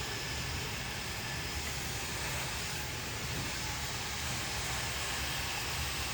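Handheld hair dryer running steadily, a continuous rush of blown air.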